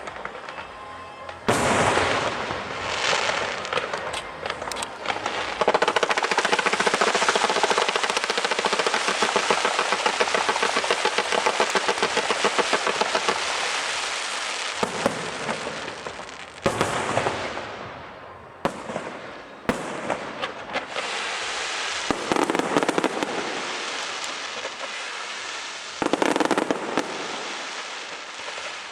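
Aerial fireworks going off. After about a second and a half comes a long, dense run of crackling bursts lasting over ten seconds, then separate salvos every few seconds.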